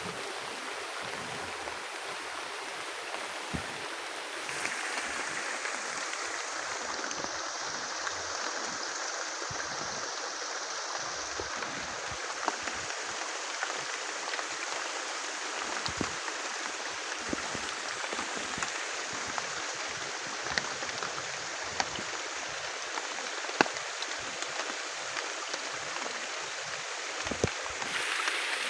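Steady heavy rain, an even hiss with scattered sharp taps of drops.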